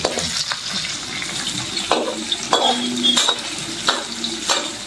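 Fermented fish with shallots, garlic and chilli sizzling in oil in a black wok, with a metal spatula scraping and knocking against the wok several times as it is stirred.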